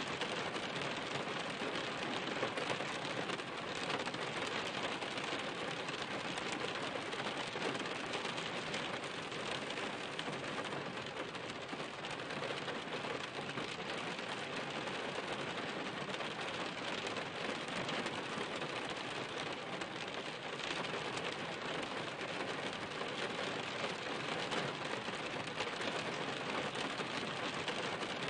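Steady rain, with countless drops striking a surface in an even, unbroken wash of sound.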